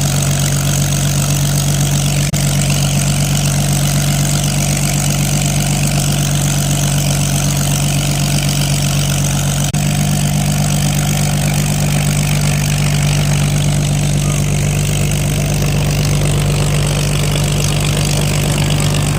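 Piston engine of a vintage light aircraft running steadily at low power, an even drone. About ten seconds in there is a brief dip in level and the engine note shifts slightly.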